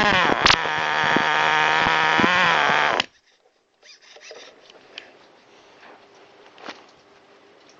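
Small two-stroke petrol engine of a 1/5-scale RC buggy running and revving up and down, then cutting out suddenly about three seconds in. The owner says it stalls like this whenever he brakes. A few faint clicks of handling follow.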